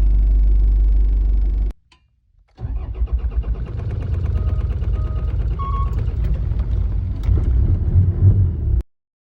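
Old diesel engine of a 1993 Toyota Land Cruiser Prado 78 starting first time in sub-zero cold and running with a rapid pulsing beat. The start is clean now that the fuel heater switch with its faulty seal, which let air into the fuel and starved the engine, has been replaced. A loud steady sound comes first, then a gap of about a second before the engine runs, and the sound cuts off abruptly near the end.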